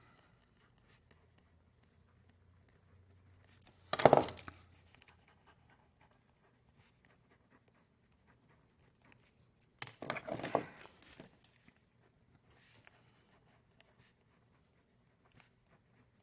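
Faint scattered taps and scratches of writing or drawing in a small room, with two brief louder noises: a short one about four seconds in and a longer one about ten seconds in.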